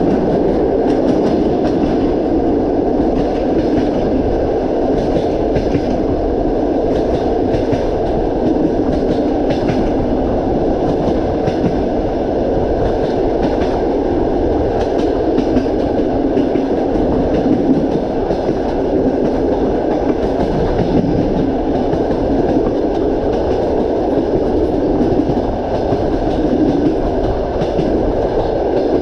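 Moving train running steadily, with the continuous rumble of the carriages and the clickety-clack of the wheels passing over rail joints.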